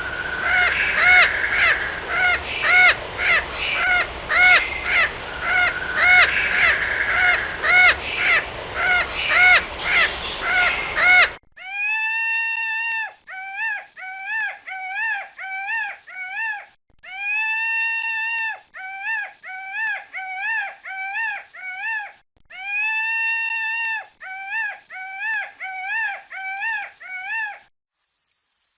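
Two recordings of repeated animal calls. First comes a fast series of short, high calls at about two a second over background noise. After a cut, a long call is followed by a run of short, rapid calls, and the pattern repeats three times.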